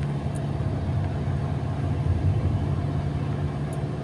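Car engine running steadily under way, with road noise, heard from inside the cabin.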